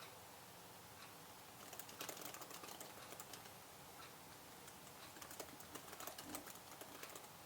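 Faint typing on a computer keyboard: after a quiet start, irregular runs of quick keystroke clicks begin about two seconds in and go on until near the end.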